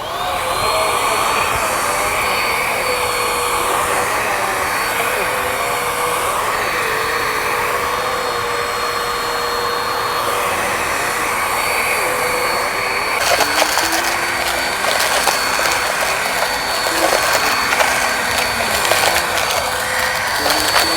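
Vacuum cleaner switched on, its whine rising into a steady high pitch as it runs over grass. About thirteen seconds in, crackling clicks join it as it sucks up bits of debris.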